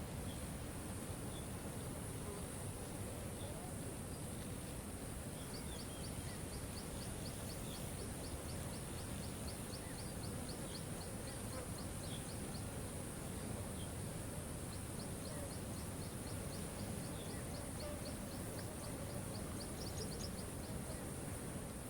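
Steady rushing of a waterfall. Over it runs a high, rapid ticking trill of about four or five clicks a second, starting about a quarter of the way in, breaking off briefly past the middle and then resuming, with scattered faint high chirps.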